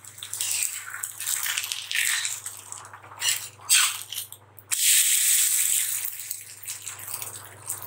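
Adai batter sizzling on a hot cast-iron dosa griddle while a steel spatula scrapes under it to flip it. About five seconds in, the sizzle turns suddenly louder as the adai is turned over onto the hot griddle.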